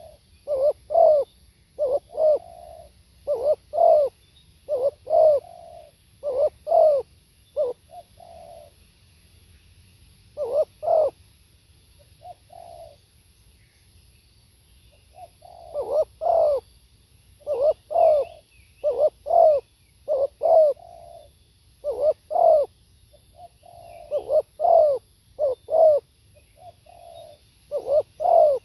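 Spotted dove cooing in repeated phrases of two or three short coos, with a lull of several seconds in the middle broken by only a couple of notes before the phrases resume. Faint chirps of small birds sound behind it.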